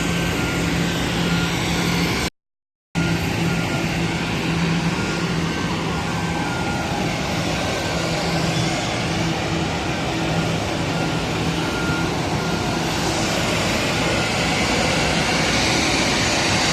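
Steady noise of an Airbus A320's jet engines with a repeating on-off beep over it for the first half; the sound cuts out briefly about two seconds in, and a hiss grows stronger near the end.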